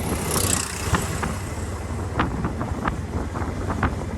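Wind buffeting the microphone on a moving motorcycle, over a steady low engine rumble, with scattered sharp ticks and a brief hiss near the start.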